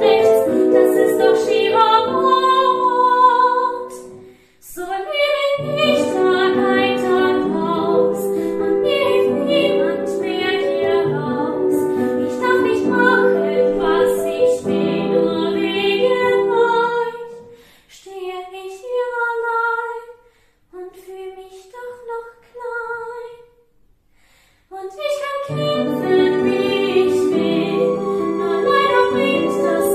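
A song: a female voice singing a melody over accompaniment. The music drops out briefly about four seconds in. From about eighteen seconds it thins to a few separate sung notes with gaps between them, and the full accompaniment comes back about twenty-five seconds in.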